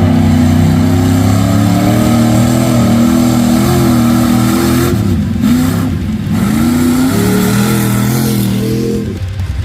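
A mud-bog truck's engine revving hard, its pitch rising and falling, with two brief throttle lifts about five and six seconds in. It climbs again, then drops off near the end.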